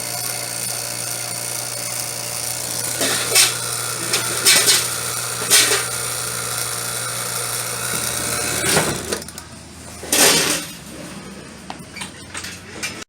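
HVAC rotary-vane vacuum pump running with its gas ballast open, holding just above 1,000 microns rather than pulling lower; it stops about nine seconds in. Several short loud clatters come during and just after the run.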